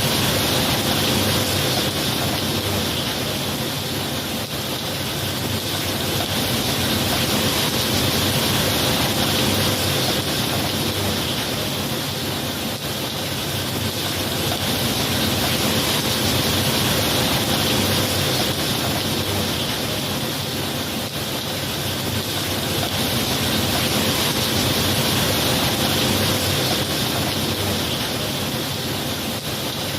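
Steady rain, a dense even hiss that slowly swells and eases every several seconds.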